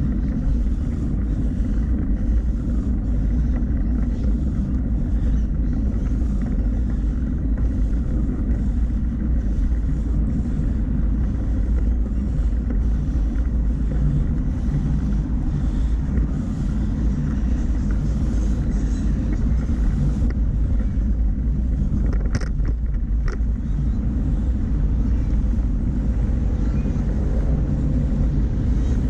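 Steady low rumble of wind rush and tyre noise on the microphone of a camera riding along on a moving bicycle, with a few brief sharp clicks about three quarters of the way through.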